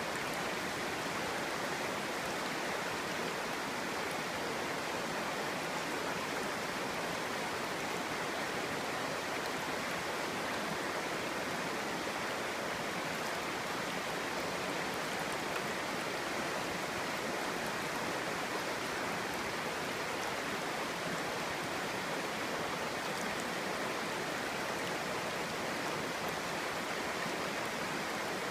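Clear mountain stream babbling, a steady rush of flowing water.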